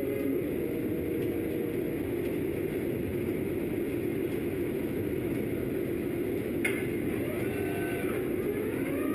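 Steady mechanical running noise of machinery, with faint whining rising and falling tones in the second half and a single sharp click about two-thirds of the way through.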